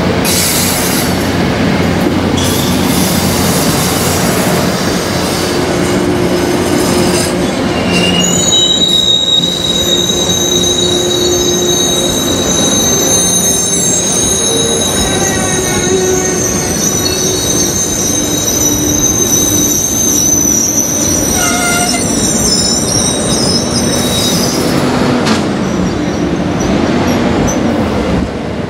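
MBTA commuter coaches rolling past close by, steel wheels rumbling on the rails. From about eight seconds in, a high, steady wheel squeal sets in and lasts through most of the passage, and the sound eases as the last car goes by near the end.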